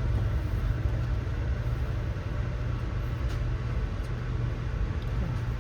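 Steady low rumble inside an Amtrak passenger car, with a few faint ticks.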